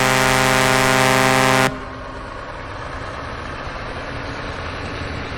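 A loud, steady horn blast that cuts off suddenly a little under two seconds in, followed by a steady rumbling noise.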